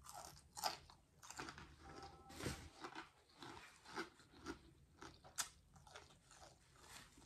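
Close-up chewing of crunchy fried food, a crisp crunch about twice a second.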